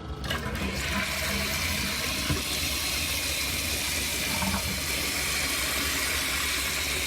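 2000s Toto Reliance toilet flushing: a click of the handle at the start, then water rushing steadily.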